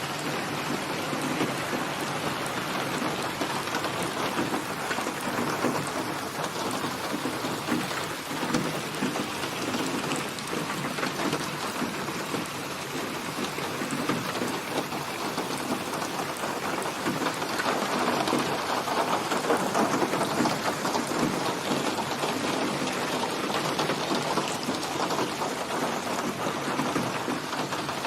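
Rain pouring steadily, a dense even hiss of drops that swells louder for a few seconds past the middle.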